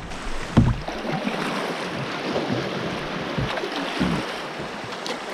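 Water running and splashing around a kayak on a river, with a few dull low thumps, the loudest about half a second in.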